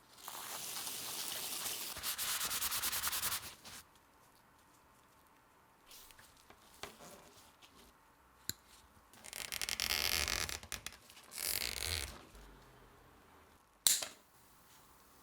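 Abrasive hand rubbing on a part: three spells of scratchy strokes, the first about four seconds long and two shorter ones near the end, with a sharp click just before the end.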